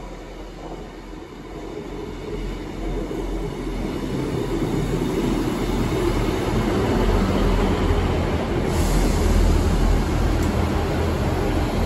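Northern diesel multiple unit train running in alongside the platform. Engine drone and wheel rumble grow louder over the first few seconds as it nears, then hold steady as the carriages pass close by. A brighter hiss joins about nine seconds in.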